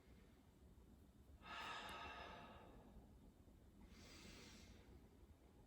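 A person breathing audibly during a quiet yoga hold: one long breath about a second and a half in, then a fainter one about four seconds in, with near silence between.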